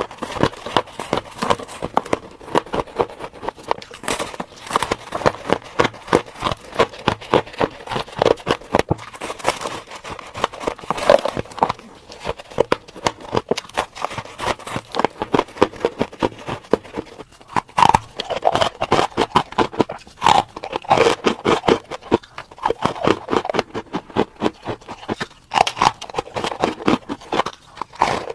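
Freezer frost being bitten and chewed: a rapid, irregular run of crisp crunches and crackles.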